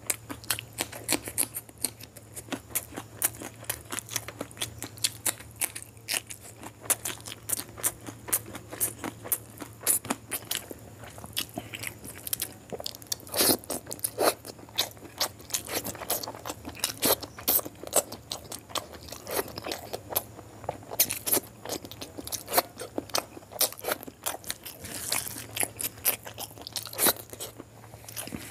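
Close-miked chewing and crunching of a mouthful of curried rice, quail eggs and raw green chilli eaten by hand: a dense, irregular run of sharp crunches. A steady low hum lies underneath.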